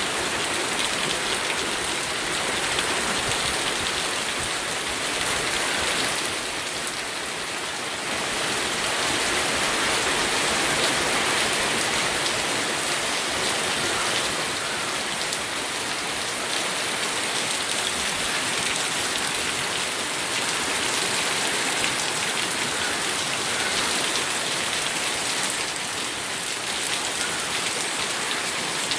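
Steady rain falling, an even hiss with many small drop ticks, easing slightly for a moment about six seconds in.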